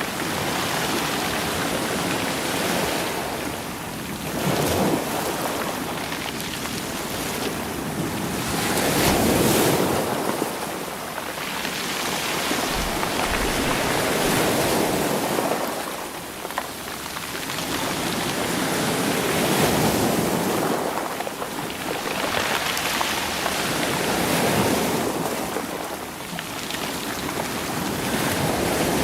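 Sea waves washing over a stony shore and rolling the stones, each surge swelling and fading about every five seconds.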